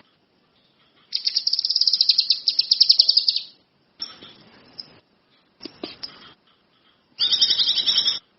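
Kinoi songbird singing: two loud, fast trills of rapid high notes, about a second in and again near the end, with shorter quieter phrases between them, each phrase starting and stopping abruptly.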